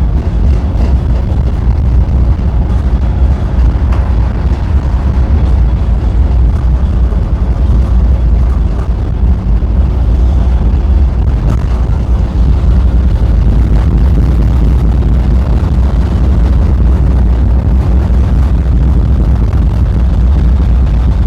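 Tram running along the track, heard from on board: a steady, loud low rumble of wheels on rails and running gear.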